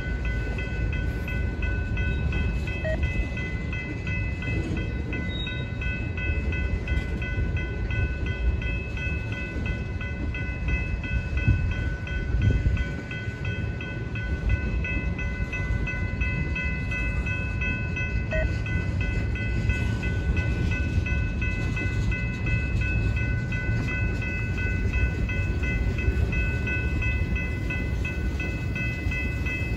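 Freight train of tank cars rolling past, with a steady low rumble of wheels on rail. Several thin, steady high-pitched tones run over the rumble.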